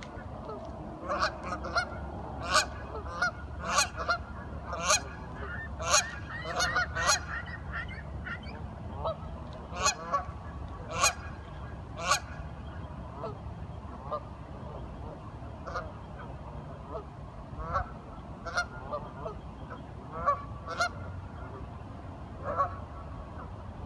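Waterfowl calling in short, repeated calls. Several overlap in the first eight seconds, then they come singly every second or two over a low steady rumble.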